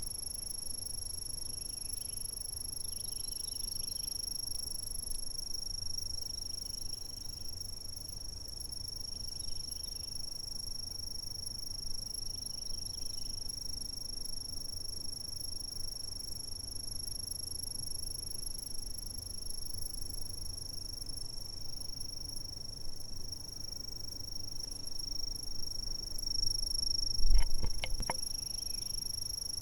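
Insects calling in one steady, unbroken high-pitched trill over a faint low rumble. A few sharp knocks come close together near the end, louder than the insects.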